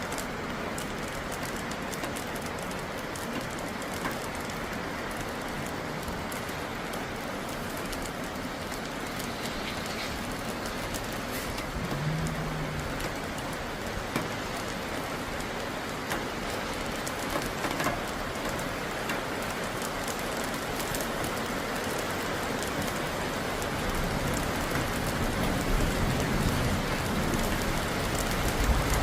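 Steady heavy rain falling and pattering on surfaces. A low rumble of thunder builds over the last few seconds.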